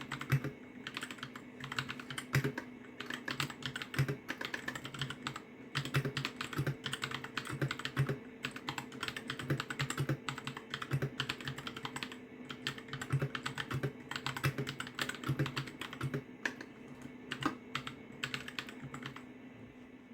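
Continuous fast typing on a Royal Kludge RK60 mechanical keyboard: a dense run of clacking keystrokes that stops about a second before the end.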